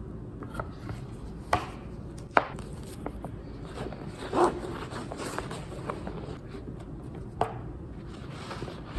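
A handful of light, irregularly spaced knocks and taps on a hard surface over a faint low hum.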